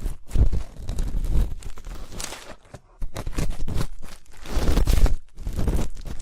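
Ear-cleaning ASMR sounds: a tool scraping and rubbing close against the microphone's ear, in irregular strokes with low thuds and a short pause about three seconds in.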